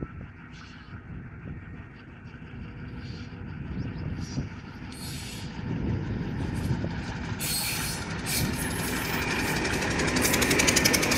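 Pakistan Railways GRU-20 diesel-electric locomotive hauling a passenger train, its engine getting steadily louder as it approaches. Near the end it passes close, with wheels clattering in a quick even rhythm over the rail joints.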